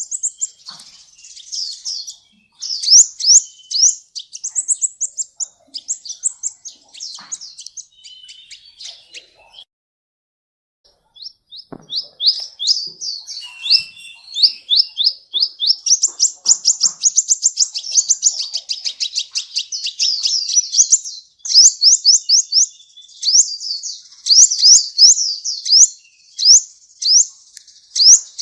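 Sunbird singing: rapid runs of thin, high, upward-sweeping chirps. The song breaks off for about a second and a half, about ten seconds in, then resumes in faster, denser runs.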